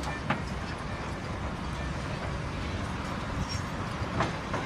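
Heavy machinery running with a steady low rumble, with a few short sharp clicks or knocks, one near the start and one about four seconds in.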